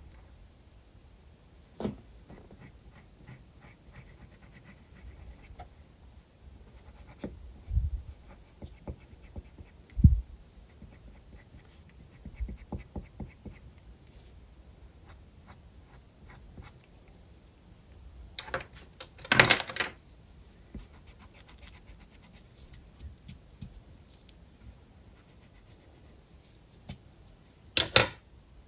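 Graphite pencil scratching on sketchbook paper in many short strokes, with a couple of low knocks about a third of the way in and two louder bursts of scratching about two-thirds through and near the end.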